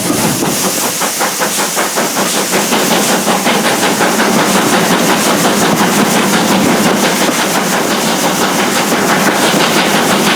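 Steam train behind GWR Castle class locomotive 4079 Pendennis Castle, heard from aboard while running at speed: a fast, even rhythm of beats over a steady rushing hiss.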